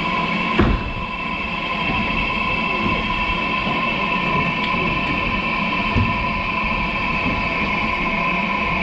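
Narrow-gauge steam railway train running, a steady rumble with a continuous high ringing tone over it, and two short knocks, about half a second and about six seconds in.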